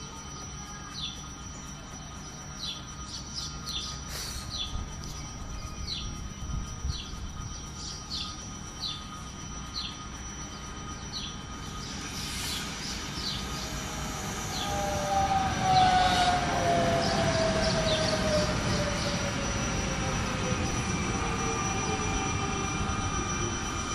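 Birds chirping repeatedly, then an electric regional train coming into the station about halfway through. It brings a rising rumble of wheels on rails and a falling whine as it slows to stop at the platform, loudest a few seconds after it appears.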